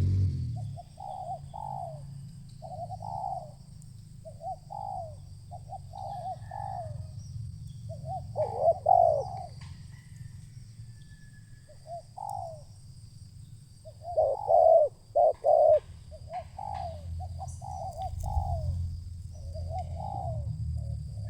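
Spotted doves cooing in short repeated phrases, with a few louder, closer calls about a third of the way in and again past the middle. A low steady rumble runs underneath.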